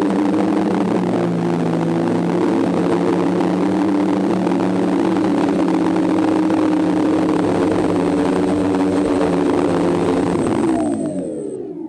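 DJI F550 hexacopter's electric motors and propellers running with a steady hum, then spinning down with a falling pitch near the end as the motors stop.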